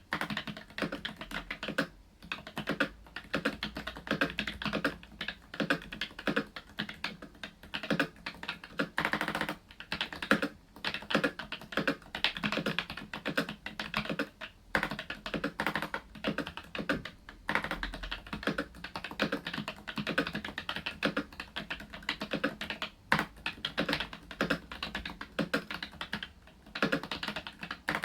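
Continuous fast typing on an Asus ROG Strix Scope RX mechanical keyboard with ROG RX Red optical switches, a dense run of key clicks with a couple of brief pauses.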